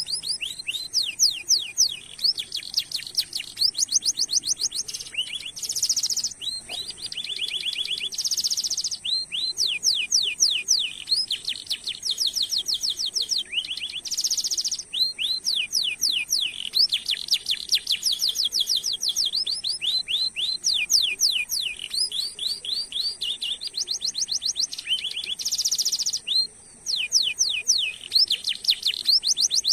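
Domestic canary singing a long rolling song: fast trills of rapidly repeated falling notes, several a second, broken now and then by short buzzy notes, with a brief pause near the end.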